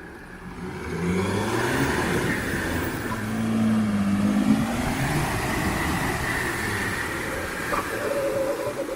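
Mercedes-Benz G-Class diesel engine under load off-road, revving up about a second in, holding higher for a few seconds, then easing off.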